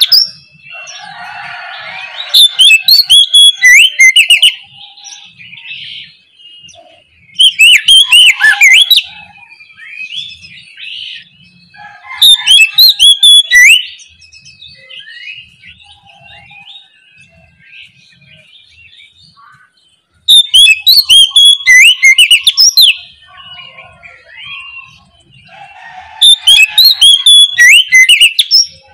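Oriental magpie-robin (kacer) singing: five loud bursts of rich, varied whistled song, each a second or two long, with softer chirps and short phrases in between.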